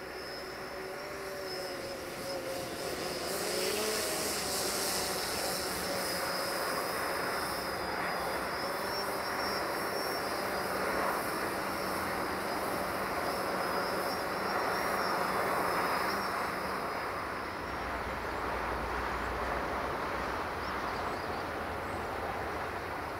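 Distant diesel-hauled passenger train passing, heard as a steady mechanical drone with a high, slightly wavering whine that fades out about seventeen seconds in, followed by a low rumble.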